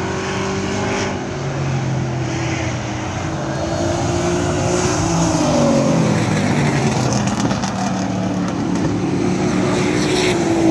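Several racing trucks' engines running at speed together on the track. One engine note drops in pitch as a truck goes by about halfway through, and another near the end.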